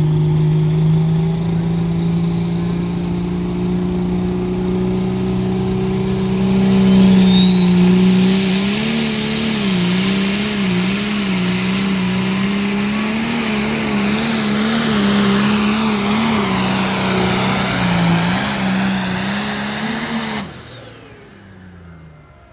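A pulling tractor's engine making a hook: it runs loud, climbs in revs about seven seconds in with a high whine rising and then holding, and its pitch wavers as it labours under the sled's load. Near the end the engine note cuts off suddenly as the run ends.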